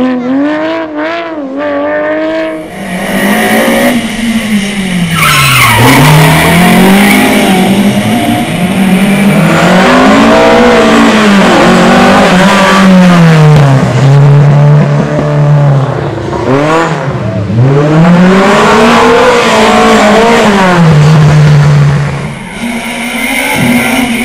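Rally car engine driven hard on a stage, its note climbing and dropping again and again through throttle and gear changes, growing loud about three seconds in.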